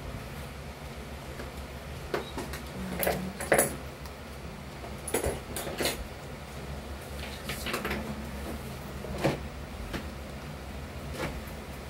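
Scattered short knocks and clicks, about eight at irregular intervals, like objects being handled or set down, over a steady low hum.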